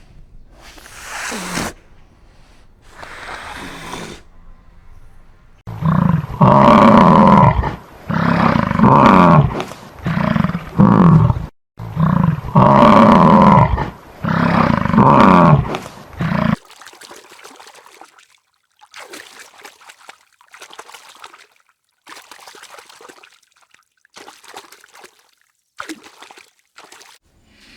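A large animal calling loudly, a run of pitched calls about a second each, from about six seconds in until about sixteen seconds. Fainter, scattered noises come before and after.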